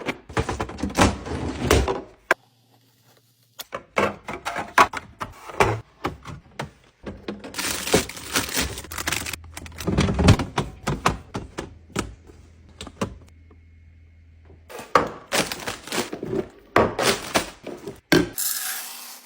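Thunks, clicks and clatter of plastic containers, jars and packaged food being set down and handled while a refrigerator is restocked. The sound comes in short bursts of knocks with a couple of brief silent gaps between them.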